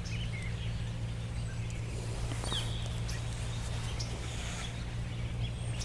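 A few faint bird chirps now and then, one short falling chirp about two and a half seconds in, over a steady low hum.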